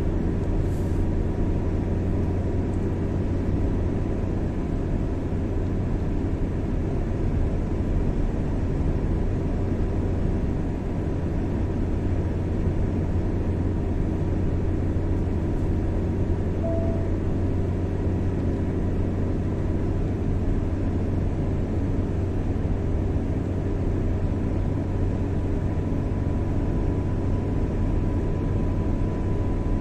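Car driving at a steady speed on the highway: even engine and tyre rumble with no change, and a faint steady high tone running through it.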